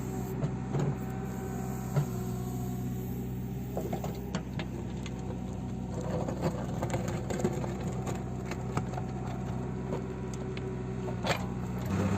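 JCB 3CX backhoe loader's diesel engine running steadily, with irregular clicks and knocks over it. The engine sound gets louder just before the end.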